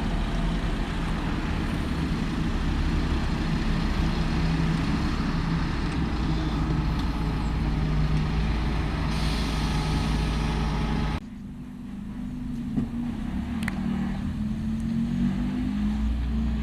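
Heavy vehicle running with a steady hum. The sound cuts off abruptly about eleven seconds in and another vehicle's steady hum follows, with a small click shortly after.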